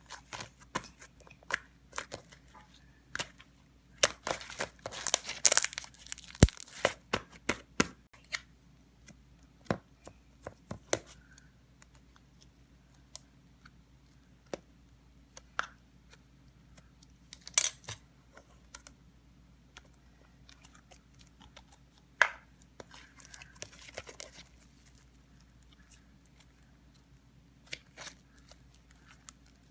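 Slime being stretched, pressed and mixed by hand: irregular sticky clicks and pops, with a dense run of crackling about four to seven seconds in and a few sharper pops later on.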